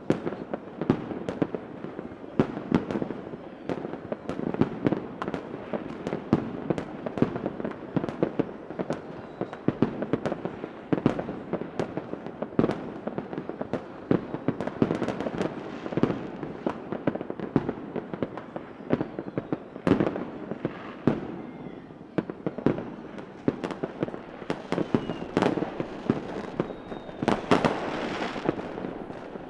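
Fireworks going off in a dense, continuous barrage of bangs and crackles, with a few faint whistles near the end.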